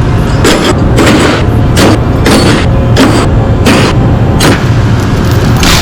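Steel tie-down chains clanking and knocking against a steel coil and a flatbed trailer as the load is chained down, a sharp metallic hit about every half second to second, over a steady low hum.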